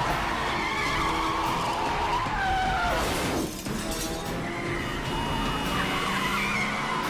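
Car tyres squealing and skidding during a car chase, the squeal wavering and sliding, with one squeal falling steeply in pitch about three seconds in, over the cars' engines.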